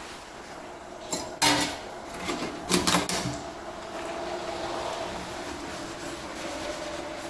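Dishes being washed by hand: two short bursts of clinking and clattering as dishes are handled, about one and three seconds in, then a steady rush, as of running tap water, from about four seconds in.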